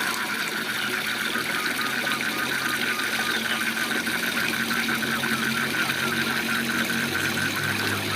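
Waterfall rushing steadily, with frogs calling in a fast, evenly pulsed trill and a low steady hum underneath.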